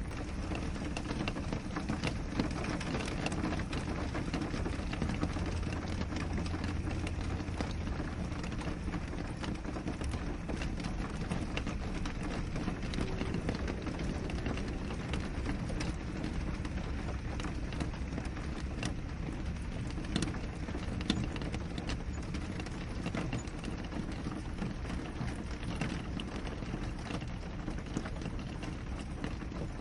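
Steady rain on a window pane: a continuous patter with many individual drops tapping the glass, a few of them louder, over a low rumble.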